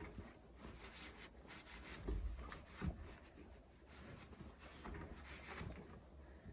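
Faint scattered light clicks and rubbing, as of hands handling something, with a stronger knock about two seconds in and another near three seconds.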